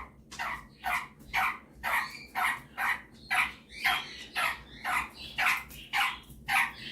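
Superb parrot giving a steady run of short, sharp calls, about two a second.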